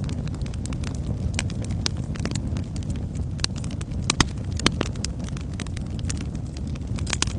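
Wood fire burning in a fireplace: a steady low rumble of flames with irregular sharp crackles and pops, a few louder pops around the middle.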